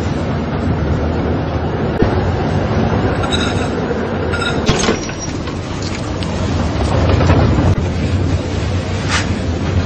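Steady low rumble of a moving train heard from inside the carriage, with a couple of sharp knocks and a brief high ringing tone about three seconds in.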